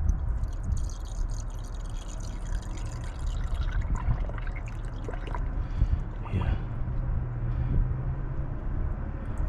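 Water being poured into a car's cooling system, trickling and dripping as it fills toward the three-quarter mark.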